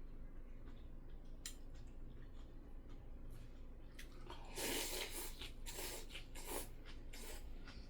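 Wet mouth sounds of eating: a short cluster of squishy chewing noises about halfway through, with faint scattered clicks before it.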